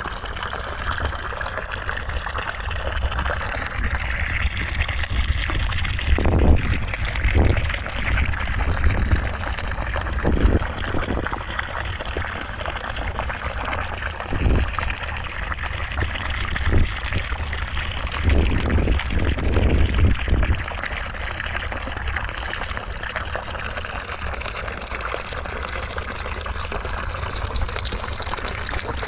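Steady white noise with the rushing, gushing character of running water, over a low rumble. A few soft low thumps come through between about six and twenty seconds in.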